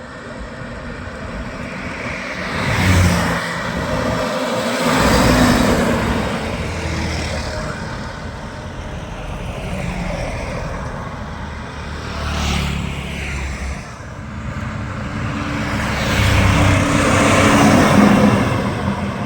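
Highway traffic with heavy trucks: vehicles pass one after another, each swelling and fading over a steady road rumble, the loudest pass near the end.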